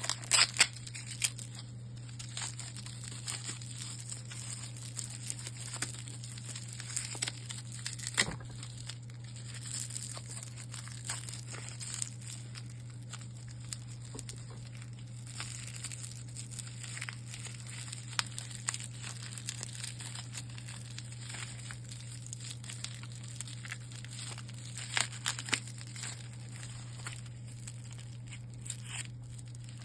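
Plastic packaging crinkling and rustling, with scattered clicks and small knocks as parts are handled, over a steady low hum.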